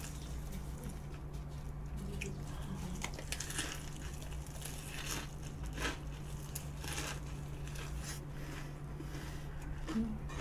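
Close-up chewing of a mouthful of fried tempura wrapped in lettuce, with many short, crisp crunches scattered throughout. A steady low hum runs underneath.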